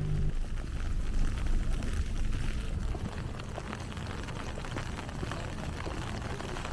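City street ambience in snowy weather: a steady low rumble with a scatter of faint ticks and crunches. A low humming tone cuts off right at the start.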